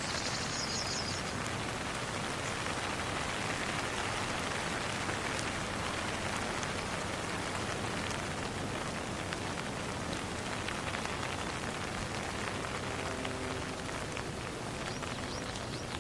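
Steady rain falling: an even hiss with scattered small drop taps. Faint soft tones come in near the end.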